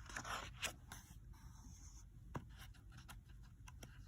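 Faint rustle of paper as a picture book's page is handled and turned, followed by a few light clicks.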